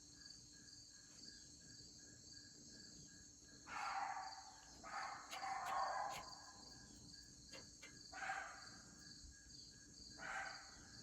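A steady chorus of crickets with an even, pulsing chirp, broken four times by short, louder bursts of noise.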